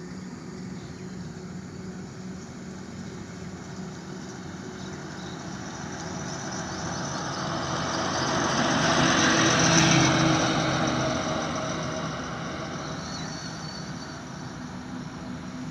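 Road vehicle noise: a steady engine hum with a rushing sound that builds to a peak about nine to ten seconds in and then dies away, as a vehicle going by.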